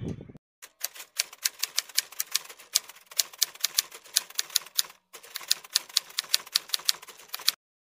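Typewriter key-clacking sound effect accompanying on-screen text being typed out: rapid, irregular clicks, about four to six a second, with a brief pause about five seconds in, stopping shortly before the end.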